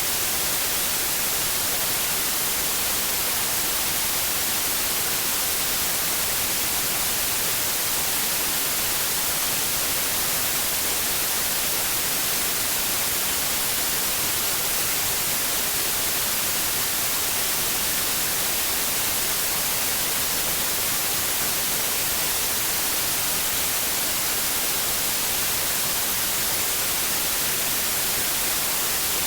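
Steady white noise: an even, unbroken hiss, strongest in the high treble, with no change in level, played as a sleep aid for babies.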